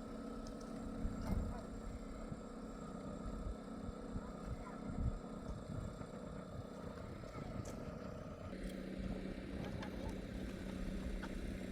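An engine running steadily with a low rumble. About eight and a half seconds in, its pitch settles lower, as if it drops back toward idle.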